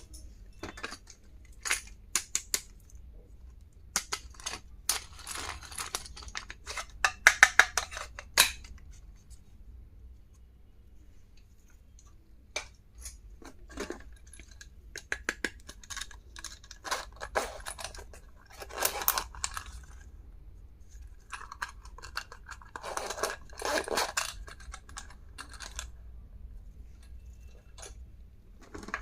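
Stationery being handled and unpacked: scattered sharp clicks and short bursts of rustling packaging, heaviest in a few clusters.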